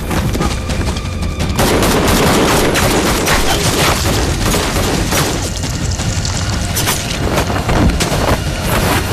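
Rapid, sustained gunfire from several guns, a dense volley that grows louder and heavier about a second and a half in.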